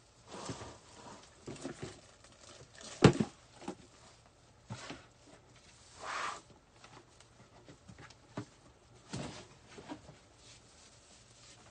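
Intermittent rustling and crackling as pine greenery is handled and tied into a wreath, with one sharp knock about three seconds in as the loudest sound.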